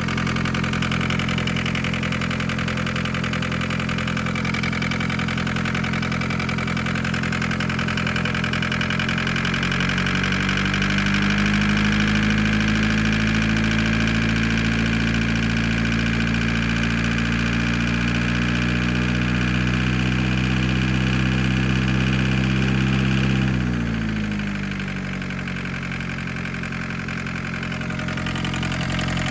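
1981 Isuzu Pup's four-cylinder diesel engine running just after a warm start. About ten seconds in its speed climbs and holds, and a little past twenty seconds it drops back to a slower idle.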